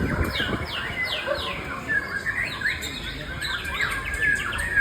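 White-rumped shama singing a fast, varied song of sliding whistles and warbles, many notes falling in pitch.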